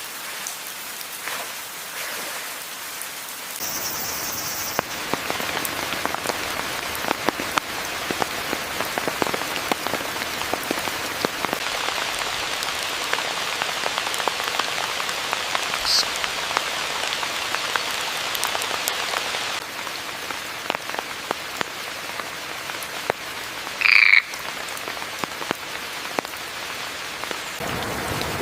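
Steady rain falling, with many small drops pattering. A few short high-pitched calls come through it, the loudest about four seconds before the end.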